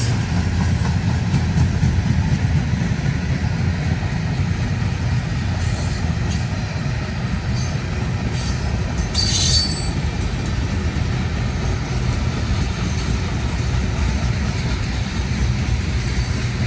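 Freight train's cars rolling past with a steady low rumble, and a few brief high-pitched wheel squeals about a third of the way to halfway through.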